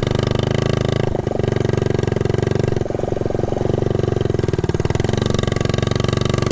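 1969 Honda Z50 mini bike's small single-cylinder four-stroke engine running under way, its note dipping briefly about a second in and again near three seconds.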